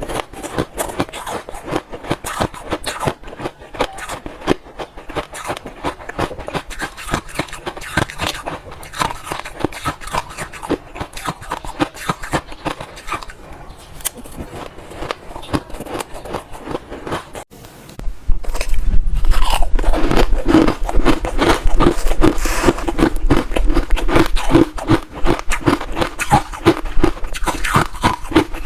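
Ice being bitten and chewed close to the microphone: a dense run of irregular crunches. About two-thirds of the way through, after a brief drop-out, the crunching becomes louder and closer, with a low hum underneath.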